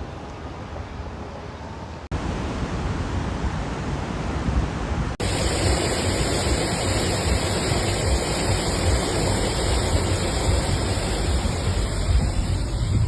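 Steady rushing storm noise, with water and wind blended together, in footage that cuts twice, about two and five seconds in. Each cut is louder than the last.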